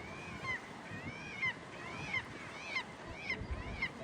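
Gull calling: a series of about seven rise-and-fall calls, each with a clear pitch, growing shorter and quicker toward the end.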